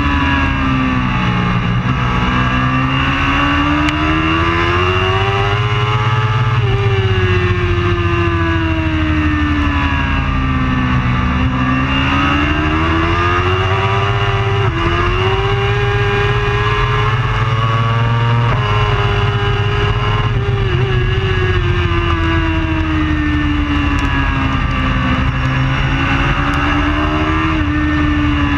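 Superbike engine running hard through a lap, its pitch climbing and dropping every few seconds as it accelerates and slows, over a steady rush of noise.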